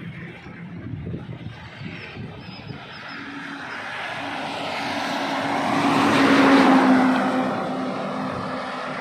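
A heavy truck passing on a highway: engine hum and tyre noise grow louder to a peak about six to seven seconds in, then ease off, after another vehicle fades away at the start.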